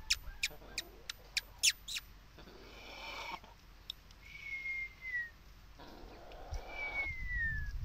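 Bird calls: a quick run of sharp chips in the first two seconds, then two drawn-out thin whistles about a second long, each sliding down a little in pitch. Between them come two soft rustling hisses.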